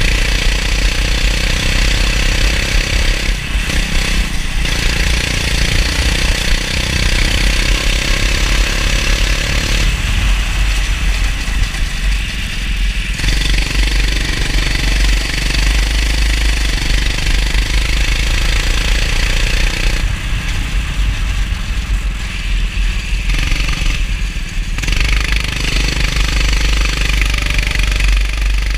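Go-kart engine running at racing speed over a heavy low rumble. The engine note drops back briefly a few times, around four seconds in, again at about ten to thirteen seconds, and between twenty and twenty-five seconds.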